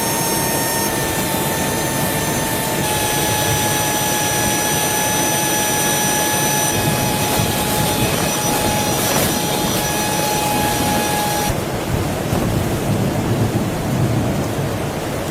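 Heavy rain falling steadily. Over it a high, steady whistling tone holds one pitch and cuts off suddenly about three-quarters of the way through.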